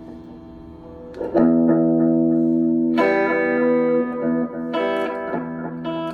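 Guitar playing sustained chords: a quiet ringing chord fades for about a second, then loud chords are struck at about 1.3 s and again at about 3 s, followed by further chord changes.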